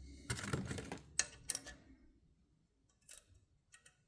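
Quick clicks and light taps of valve keepers and tools being worked around a valve stem and spring retainer on a valve spring compressor, busy in the first two seconds, then a few faint isolated clicks.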